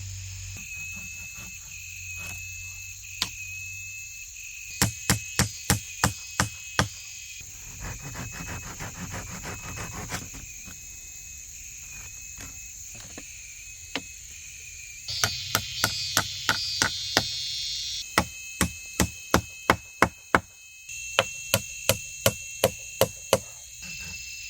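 A large knife chopping wood in runs of about seven sharp strokes, roughly three a second, with pauses between the runs. A steady high chirring of rainforest insects runs underneath.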